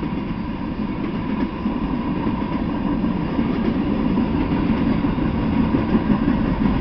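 Freight train of tank cars rolling past, a steady rumble of steel wheels on rail that grows slightly louder toward the end.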